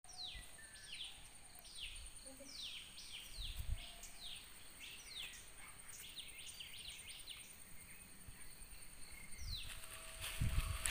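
Birds calling in a long series of short, quickly falling notes, about one or two a second, with a pause of about two seconds near the end, over a thin steady high-pitched whine.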